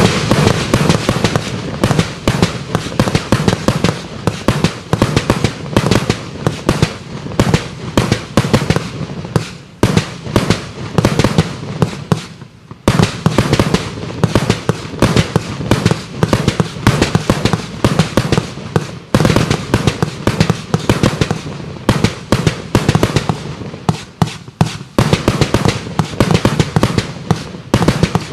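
A 1.2-inch 100-shot compound fireworks cake firing shot after shot in rapid succession, about three launches a second, with a brief lull about twelve seconds in.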